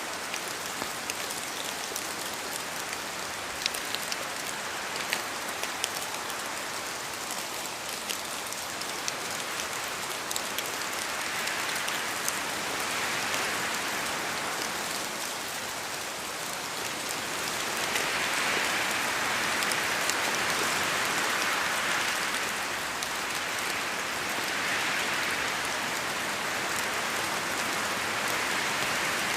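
Steady rain falling, with many separate close drops ticking through it. The rain swells louder in slow waves in the second half, as with gusts of wind.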